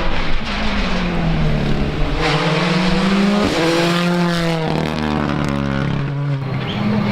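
Rally car engine revving hard, its pitch falling and rising as the throttle comes off and on, with a sudden jump in revs about three and a half seconds in.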